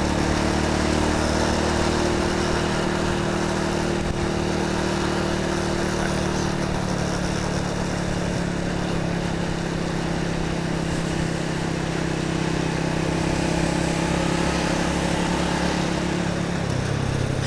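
Small motorcycle's engine running steadily while riding, with road and wind noise. Its pitch shifts slightly a few times as the speed changes.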